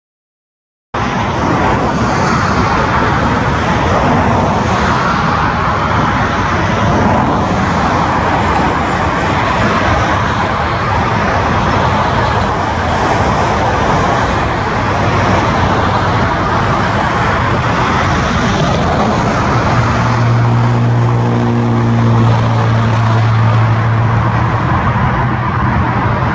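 Jet engines of an Airbus A350-900, Rolls-Royce Trent XWB turbofans, running loud and steady as the airliner passes. A steady low hum joins about twenty seconds in.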